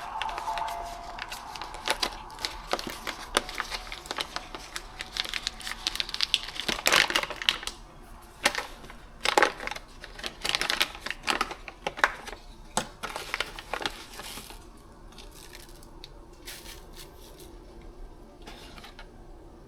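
Irregular clicks, knocks and crinkling of objects being handled, busiest through the middle and thinning out to a few scattered clicks after about fourteen seconds.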